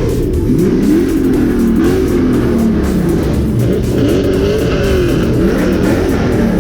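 Car engine revving in repeated blips, its pitch rising and falling about once a second, with music playing underneath.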